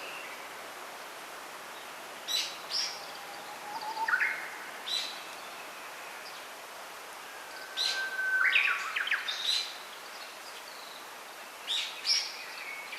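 Small songbirds chirping in short, separate phrases, a few seconds apart, over a steady faint hiss.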